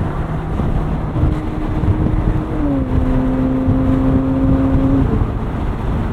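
2013 Ferrari 458 Spider's naturally aspirated 4.5-litre F136 V8 running at a steady cruise, heard from inside the car over a low road and wind rumble. Its note steps down slightly about two and a half seconds in and fades out near the five-second mark.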